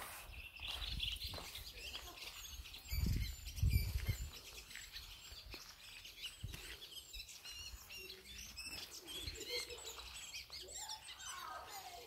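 Wild songbirds chirping and singing, many short high calls overlapping throughout. A low muffled rumble on the microphone about three to four seconds in is the loudest sound.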